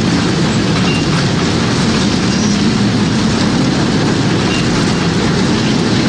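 Tornado wind sound effect: a loud, steady rush of wind, heaviest in the low range, with no breaks or changes.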